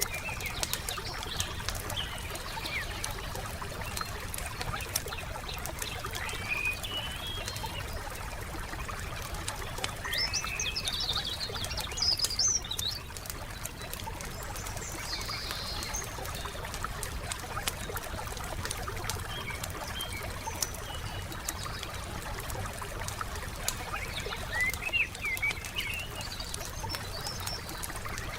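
A wood fire crackling with many small pops, while songbirds chirp and sing in short phrases several times, the loudest burst about twelve seconds in. A low steady rumble runs underneath.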